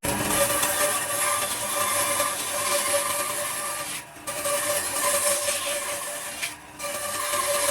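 A power tool working wood: a steady motor hum under a coarse hiss of material being cut or abraded, easing off briefly twice, about four seconds in and again near seven seconds.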